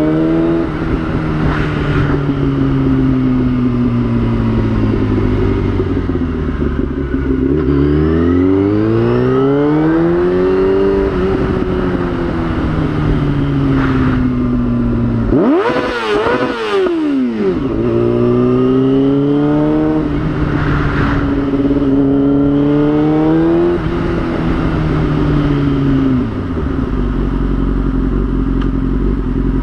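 Yamaha YZF-R6's inline-four engine heard on board while riding, its pitch rising under acceleration and falling as it slows, several times over. About halfway through there is a brief sharp rise and fall of pitch, and near the end the engine settles to a low steady note.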